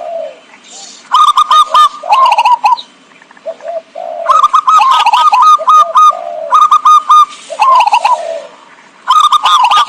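Zebra dove (perkutut) cooing in bouts of quick, clipped coo notes, three bouts with short pauses between them: the call used as a lure to draw wild perkutut.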